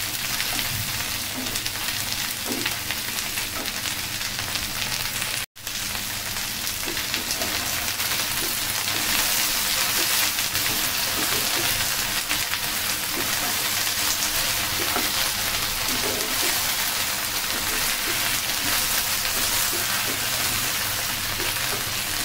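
Chopped okra frying in hot mustard oil in a pan: a steady sizzle, with a wooden spatula turning the pieces now and then. The sound cuts out for an instant about five seconds in.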